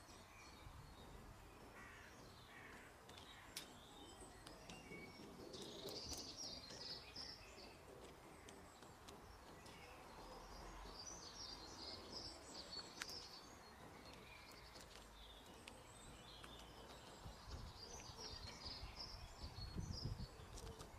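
Faint birds chirping and singing over a quiet outdoor background hiss, with a few soft clicks.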